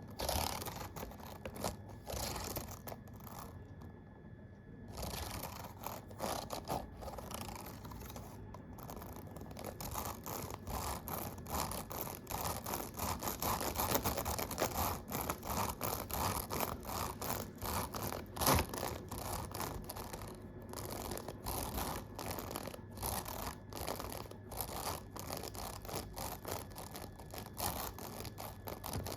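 Computer keyboard keys being tapped in a dense run of quick clicks, sparse for the first few seconds and then coming thick and fast.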